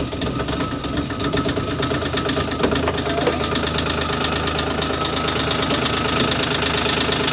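Small marine diesel engine running with a steady, fast diesel clatter, just brought to life from cold after air was bled out of its fuel injectors.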